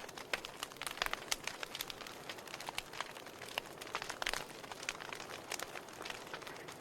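Wood fire crackling in a fireplace: irregular sharp pops and snaps, several a second, over a steady soft hiss.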